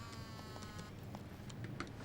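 A phone rings with a short buzzy electronic tone lasting just under a second, followed by a few faint clicks.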